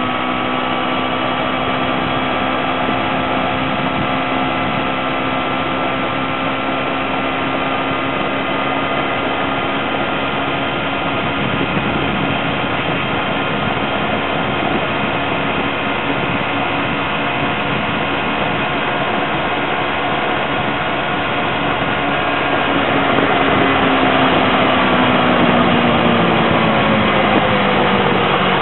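2008 Kawasaki Ninja 250R's parallel-twin engine running at a steady cruising speed over a rush of wind and road noise. Near the end it grows louder and the engine note falls in pitch, as the bike slows for a corner.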